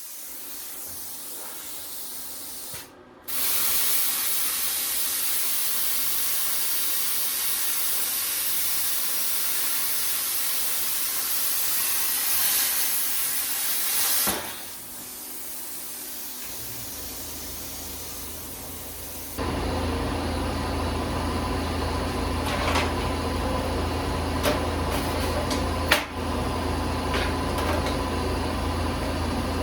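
Hissing spray, loud for about ten seconds, then weaker. After that it gives way abruptly to a steady low machine hum with a few sharp clicks.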